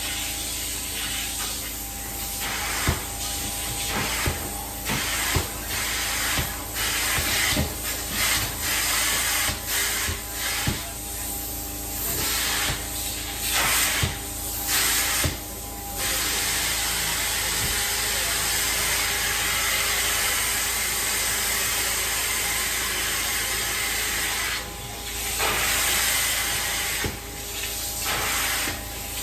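Carpet-cleaning extraction wand hissing as it sprays and sucks up water, broken by many short gaps in the first half and running unbroken later, over a steady machine hum.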